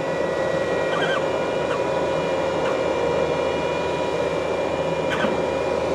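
Steady mechanical hum with a constant whine over a hiss, with a few faint clicks; it starts and cuts off abruptly.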